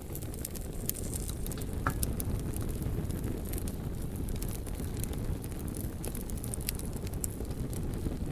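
Fire burning, with a steady low rumble under scattered sharp crackles and pops, and one brief high squeak about two seconds in.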